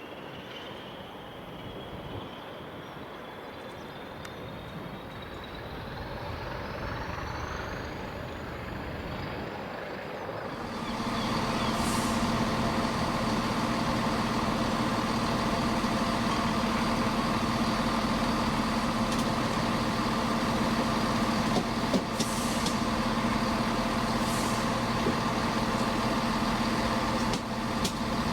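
A train's electric traction whine rising steadily in pitch as the train gets under way. About ten seconds in, it gives way abruptly to a louder, steady diesel engine hum from an idling locomotive, with a few short air hisses.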